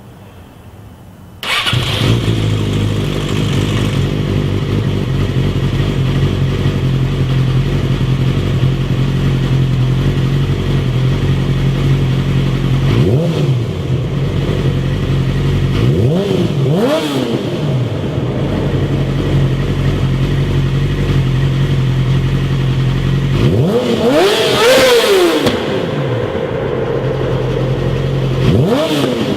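Yamaha sportbike's inline-four engine comes in suddenly and idles steadily, with short throttle blips that rise and fall in pitch and one longer, higher rev late on.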